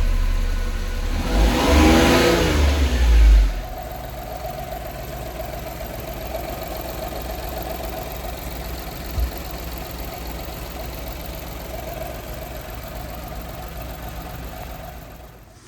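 2000 Suzuki Carry DB52T kei truck's small three-cylinder engine revved briefly, dropping to a steady idle after about three and a half seconds, then falling quiet at the very end as it is switched off.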